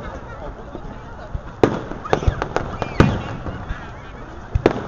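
Fireworks shells bursting in the sky: about five sharp booms at irregular intervals, the loudest two near the middle, over the voices of a crowd of onlookers.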